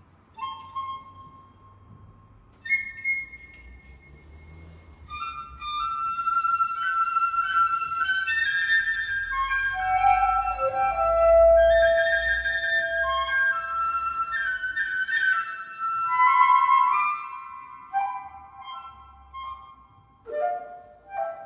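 Woodwind trio of flute and two clarinets playing: a few sparse held notes at first, then from about five seconds in overlapping sustained notes, thinning out after about seventeen seconds.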